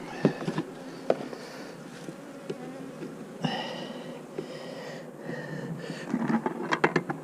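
Honeybees buzzing around an open hive, with a louder pitched buzz for a couple of seconds in the middle as a bee flies close. Several sharp clicks and knocks near the end.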